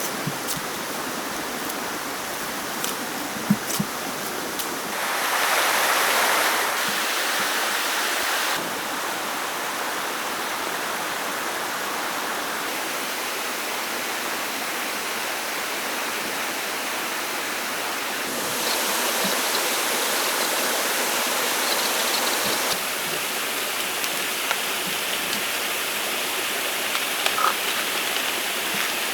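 Steady rushing of a flowing stream, stepping louder or softer abruptly several times, with a few faint clicks.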